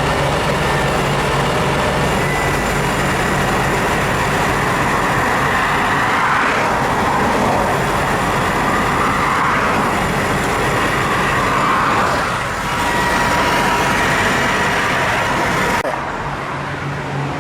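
Steady, loud motor-vehicle and road noise, with the higher part of the sound cutting off suddenly near the end.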